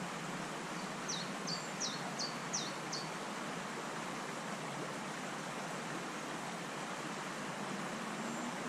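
A small bird calls a quick run of about six short, high notes, each dropping in pitch, between one and three seconds in. Underneath is a steady rushing noise from the stream.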